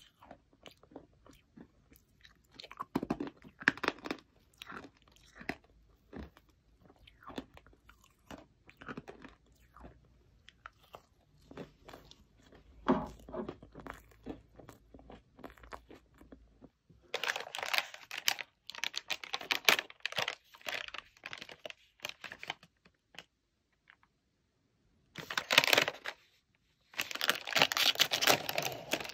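Close-up chewing of a giant strawberry marshmallow: soft, crunchy bites, with a couple of louder crunches. From about halfway on, a plastic snack bag crinkles loudly in bursts and is torn open near the end.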